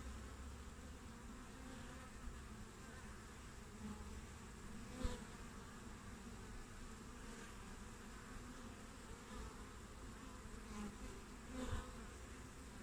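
Honeybees buzzing at the hive entrance, a steady faint hum of many bees, briefly louder twice, about five seconds in and near the end.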